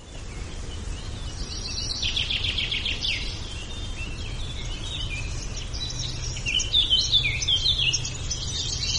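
Birds chirping and singing over a steady low background rumble. Quick runs of short falling notes come and go, with the most calling about two seconds in and again near the end.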